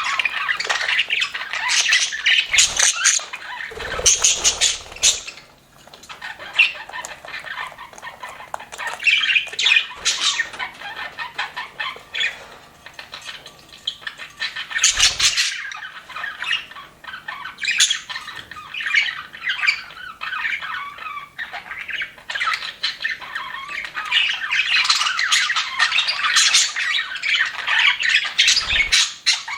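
A flock of budgerigars chattering continuously, a dense mix of warbles, chirps and squawks, easing briefly about five seconds in before picking up again.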